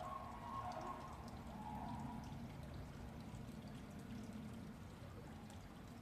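Red panda chewing bamboo: faint, irregular crisp crunching and cracking of stalks and leaves.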